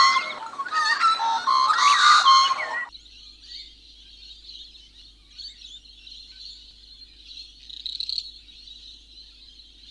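Animal calls. About three seconds of loud whistling, chirping calls cut off suddenly, and a steady high-pitched chorus of calls carries on after them, briefly louder near the end.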